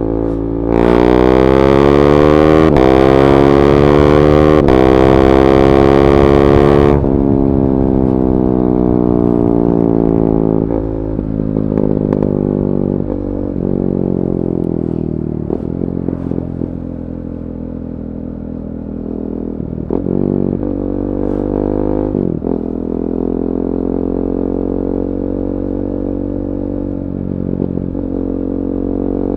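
KTM 390 Duke's single-cylinder engine through a decatted Akrapovic slip-on, accelerating hard with the pitch rising through two quickshifted upshifts, each a brief cut in the sound. After about seven seconds it shuts off and slows, the pitch falling in steps through several downshifts, then it pulls steadily again near the end.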